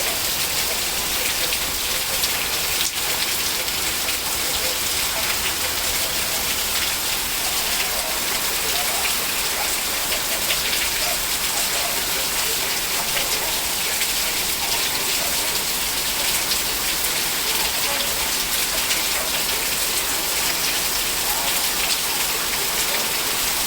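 Heavy rain falling steadily and pattering on surfaces.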